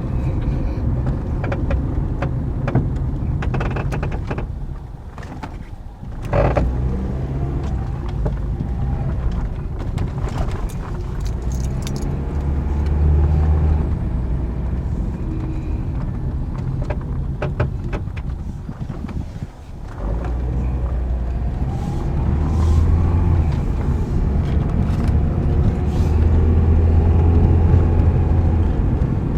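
A 2009 Toyota Corolla driving, with steady road and engine rumble and scattered clunks and rattles from the front suspension. The owner believes a front strut's top bearing has gone bad and is not turning.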